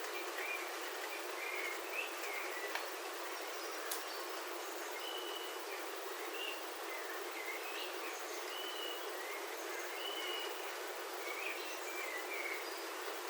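Steady rain on a roof heard from inside, an even hiss, with birds chirping short repeated calls throughout. A couple of sharp ticks come about three and four seconds in.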